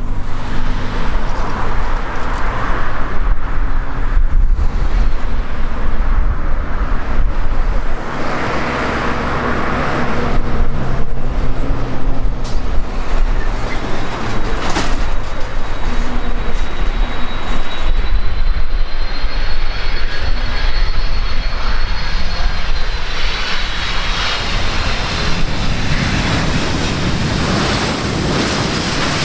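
Boeing 767-300ER jet engines heard from the ground, a loud steady rumble and rush; a high thin whine comes in about two-thirds of the way through and holds.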